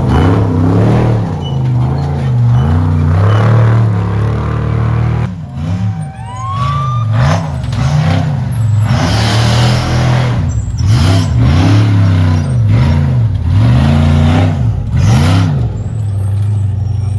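Trophy truck race engines revving up and down again and again, the pitch rising and falling every second or so as the throttle is worked over rough ground. Several loud rushes of engine and tyre noise come through in the middle and later part.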